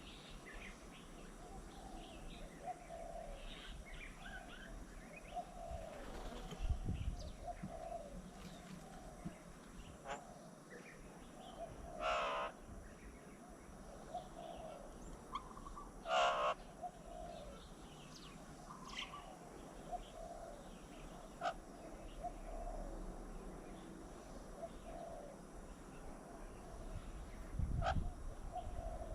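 Several birds calling, with a run of repeated low calls and scattered chirps. Two loud, harsh calls come about four seconds apart near the middle, and there is a low thump near the end.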